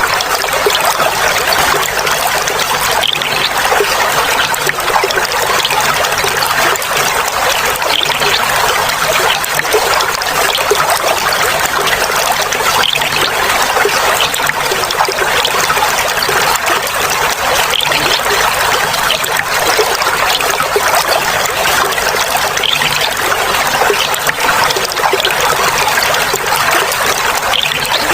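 Clear flowing water trickling and babbling steadily, a dense, even splashing with no pause.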